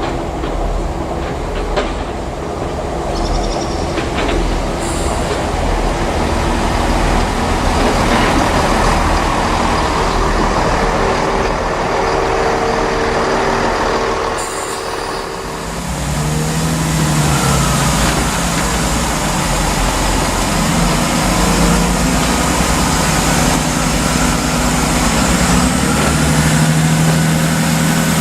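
A train running past on the line, with steady engine tones and rumble throughout. The sound dips briefly about halfway through and then returns with a new steady engine note.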